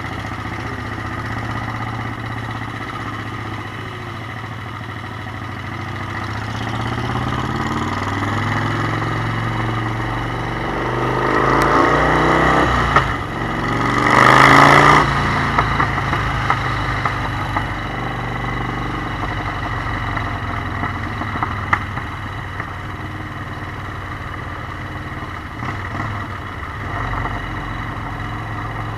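Motorcycle engine running while riding, its pitch rising and falling with the throttle. About halfway through, the engine noise swells louder for a few seconds, then settles back.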